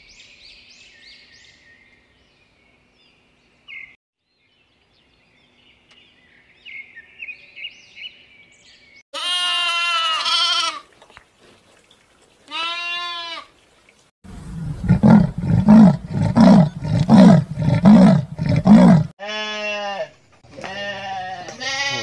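A run of animal calls: faint high chirps of a small songbird, then a young goat bleating twice, then a loud series of pulsing calls at about two a second, and mouflon bleating near the end.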